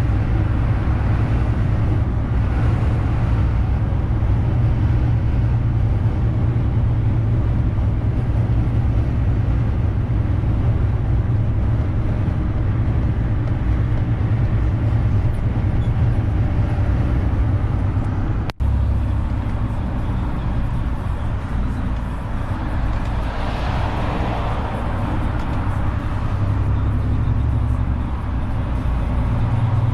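Renault truck's diesel engine running steadily as the truck drives, a deep continuous drone. The sound cuts out for an instant about two-thirds of the way through, and a rushing noise swells and fades a little later.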